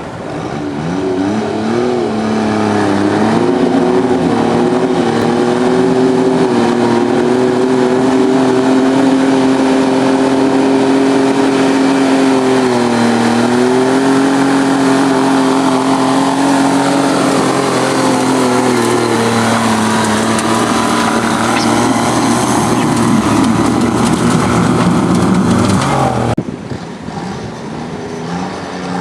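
Diesel garden tractor engine running hard under load on a pull. The pitch climbs over the first few seconds, holds steady, sags briefly about halfway through and recovers, then wavers. The sound cuts off abruptly a few seconds before the end, leaving quieter engine noise.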